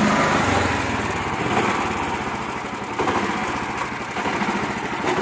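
Small engine of a mini tractor running under load, its level easing a little and then rising again about three seconds in.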